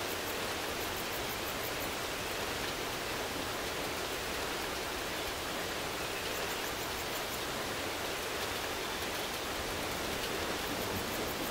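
Steady rainfall, an even hiss with no breaks, with faint rapid high ticking coming and going in the treble.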